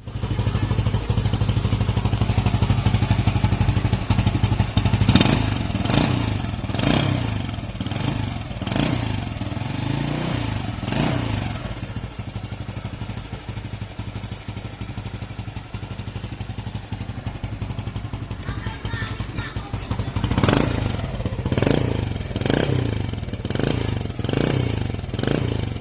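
Honda Supra Fit New motorcycle's four-stroke single-cylinder engine breathing through a Yamaha Jupiter Z 'robot' exhaust: it idles steadily and is revved in short throttle blips, about half a dozen, five seconds in. After settling back to idle, it gets another run of blips near the end.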